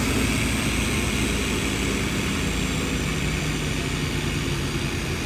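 A large engine running steadily, with an even hiss over it, from the tree-removal crew's machinery.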